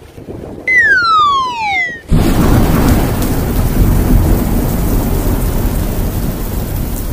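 Thunderstorm-and-rain sound effect: a loud, steady rush of rain with a low rumble that starts abruptly about two seconds in and cuts off sharply at the end. Before it, a single whistle glides down in pitch over about a second.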